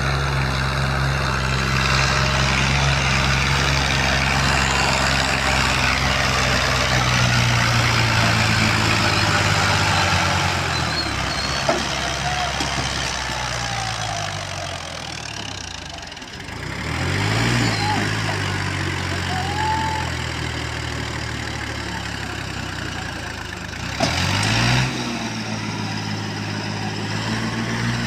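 Tractor diesel engine running steadily, its pitch sagging then climbing sharply as it revs up about seventeen seconds in, and again with a louder burst about twenty-four seconds in.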